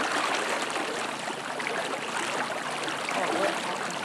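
Steady rushing of fast-flowing water from a river running high in flood.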